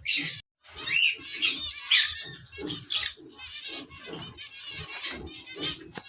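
Pet birds calling: many short, harsh chirps and squawks following one another in quick, irregular succession.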